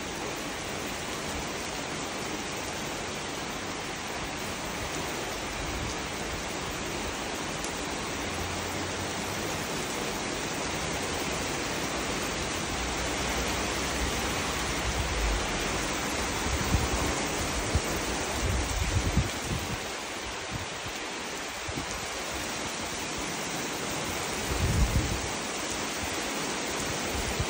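Heavy rain pouring down in a steady hiss. A few brief low rumbles come in the second half.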